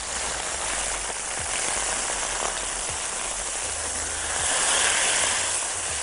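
Seasoned chicken breasts sizzling on a hot ridged grill pan as they are turned over with tongs. The sizzle grows louder for about a second, some four and a half seconds in.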